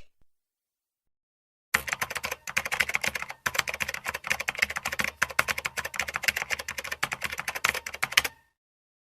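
Fast typing on keys: a dense, uneven run of key clicks that starts a little under two seconds in, pauses briefly twice, and stops about a second before the end.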